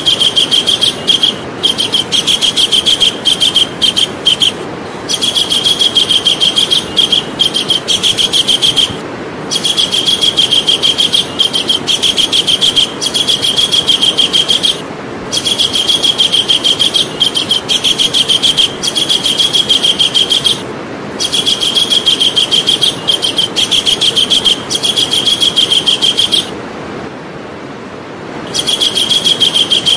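Javan kingfisher calling in a rapid, high trill, in runs of several seconds broken by short pauses, the longest pause near the end. A steady hiss sits beneath the calls.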